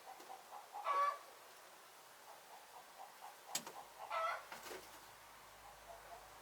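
Chickens clucking, with two louder drawn-out hen calls, one about a second in and one at about four seconds, and soft short clucks between them. A single sharp click comes just before the second call.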